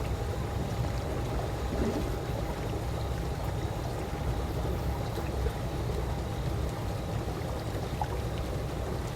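Calm swimming-pool water lapping and trickling in a steady, even wash, with a faint constant hum underneath.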